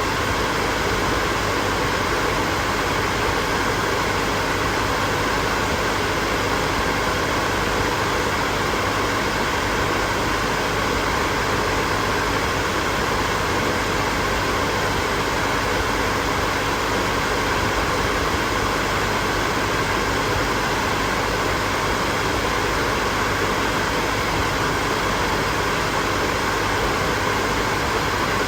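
Hair dryer running continuously: a steady, even rush of blown air with a faint motor hum, unchanging throughout.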